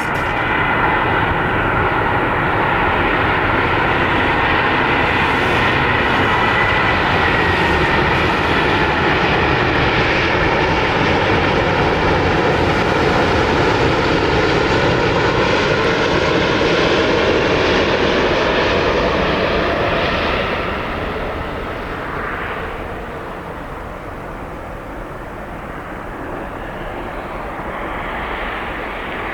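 Boeing 777-200ER jet engines on landing approach, a loud roar with whining tones that slide down in pitch as the airliner passes. About two-thirds of the way through the sound fades to a lower, steady rumble.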